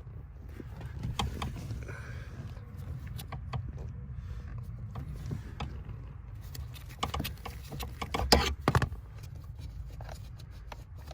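Screws holding a blower motor resistor being backed out with a hand socket driver: scattered light clicks and scrapes of metal on metal, with a louder clatter of knocks a little past eight seconds in.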